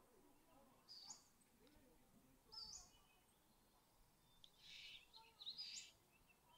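Faint bird chirps: about four short, high, rising notes a second or two apart, over quiet outdoor background noise.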